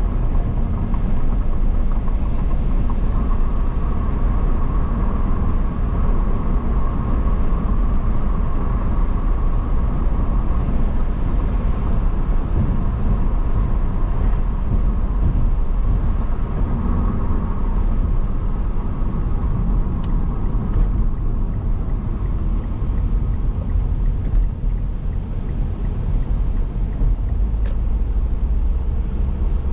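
Car driving at a steady pace: constant low road and tyre rumble with engine noise, with a faint higher hum in the first half and two faint ticks later on.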